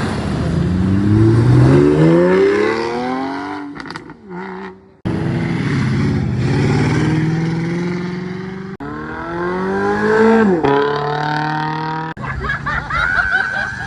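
Cars' engines revving and accelerating hard as they pull away one after another. The pitch climbs steeply, holds, then climbs again and drops off suddenly about two-thirds of the way through.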